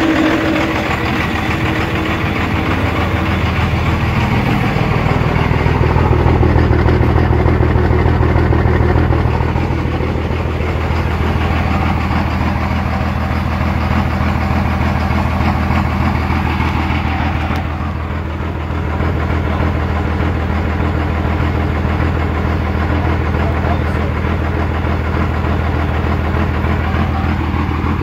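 Twin-turbo Cummins diesel engine idling steadily on a freshly installed VP44 injection pump, a little louder for a few seconds about four seconds in.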